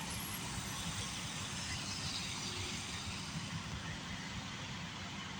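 Steady low rumble of vehicle engine and road noise, with no distinct events.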